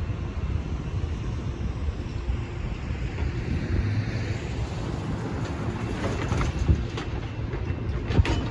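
Altamont Corridor Express commuter train rolling through a grade crossing: a steady low rumble, with sharp wheel clicks over the rail joints from about six seconds in.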